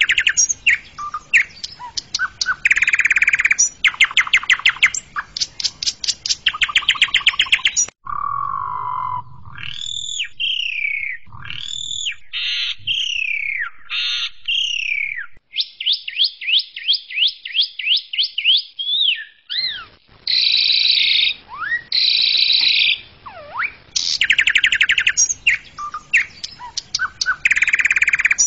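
Asian pied starling (jalak suren) in full song: bursts of rapid rattling trills, then a run of gliding whistles that mostly fall in pitch, a fast even trill, and harsh chattering notes before the rattling trills return.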